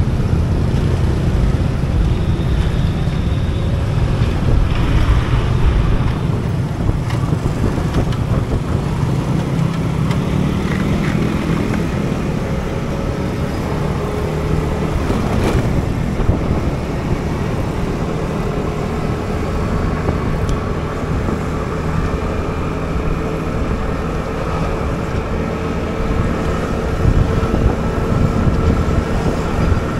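Riding a motor scooter: the small engine running steadily under heavy wind rumble on the microphone, its pitch drifting as speed changes.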